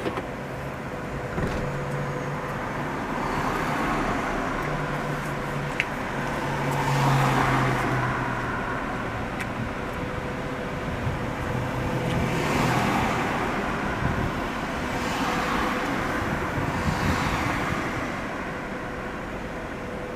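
Car on the move: a steady engine hum and road noise that swell louder and fade several times.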